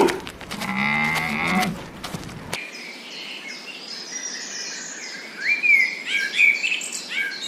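A cow's low moo ends about two seconds in. After an abrupt cut, birds chirp with quick, repeated calls that grow busier toward the end.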